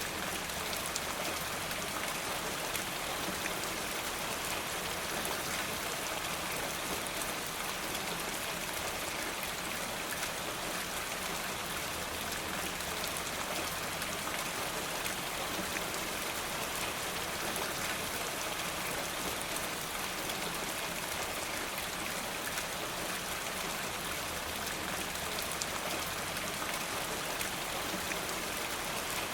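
Steady rain falling, an even patter of drops that neither builds nor eases.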